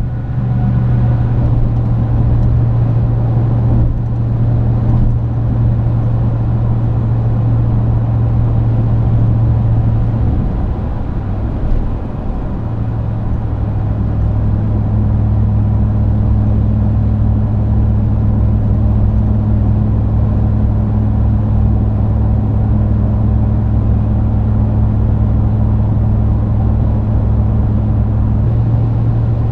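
Ram 2500's 6.4 Hemi V8 through a Magnaflow cat-back exhaust, giving a steady low drone at a constant cruising speed, with road noise underneath. The drone wavers about ten to twelve seconds in, then settles into a steady hum with a higher tone added.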